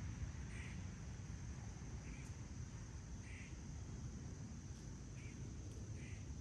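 Faint bird calls outdoors: about half a dozen short, harsh notes spaced a second or so apart, over a steady low background rumble.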